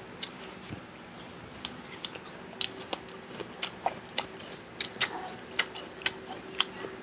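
Close-miked chewing: scattered sharp mouth clicks and smacks, coming more often and louder in the second half.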